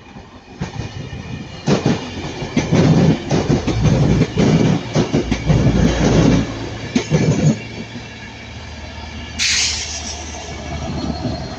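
Transport for Wales Mark 4 passenger train, worked by a Class 67 diesel locomotive, passing at speed. Its wheels clatter over the rail joints, loudest from about two to six seconds in, then fade to a lower rumble. There is a brief hiss near the end.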